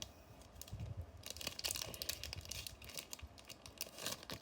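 Foil wrapper of a Digimon trading-card booster pack crinkling and tearing open in the hands, a string of short crackles coming in clusters.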